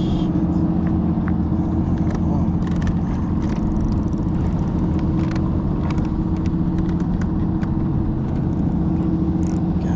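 A boat engine running steadily, a low even hum with scattered small clicks over it.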